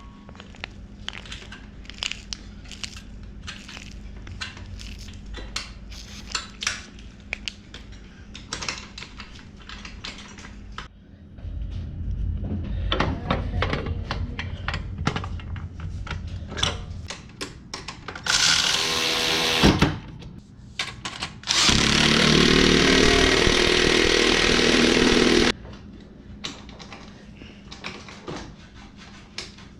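Tools at work fitting slip-on exhaust mufflers to a motorcycle: scattered clicks and clanks of hand tools, then a power tool running in two loud bursts, a short one that winds down at about 18 seconds and a steadier one of about four seconds starting near 22 seconds.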